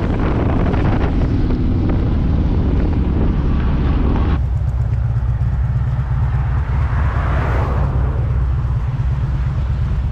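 Harley-Davidson motorcycle on the move, with wind rushing over the microphone and a steady low rumble of engine and road. The higher hiss drops away suddenly about four seconds in.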